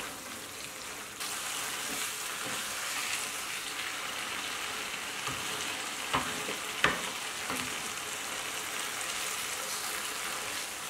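Thick chicken curry sizzling in a non-stick pan as a wooden spatula stirs it. The steady hiss grows a little louder about a second in. The spatula knocks twice against the pan about six to seven seconds in.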